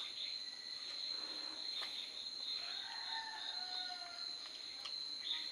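A rooster crowing once in the distance, about three seconds in, over a steady high-pitched chorus of crickets or other insects.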